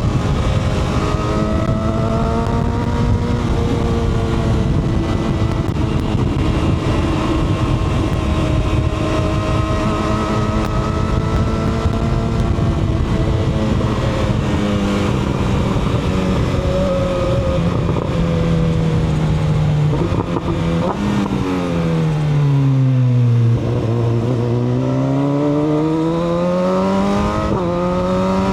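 Sport-touring motorcycle engine under way, its pitch rising and falling with the throttle through gear changes. It slows about twenty seconds in, then accelerates and shifts up near the end.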